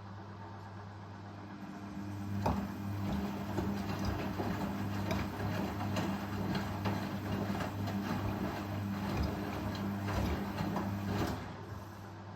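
Indesit Ecosense washing machine running with a steady motor hum. About two seconds in it grows louder, with a busy rattle of clicks and knocks as the drum turns, then drops back to the hum near the end.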